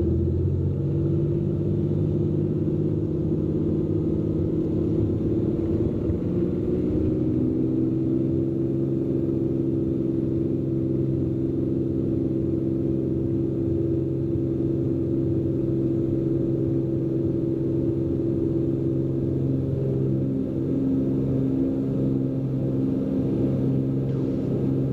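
Cessna P210N's turbocharged six-cylinder engine and propeller running at high power for takeoff and climb, a steady drone heard from the cabin. Its pitch shifts slightly about seven seconds in.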